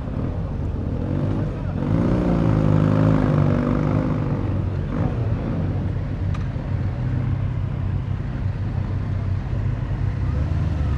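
Motorcycle engine running while under way. About two seconds in, the engine note rises and wavers for a couple of seconds as the revs change, then settles back to a steady drone.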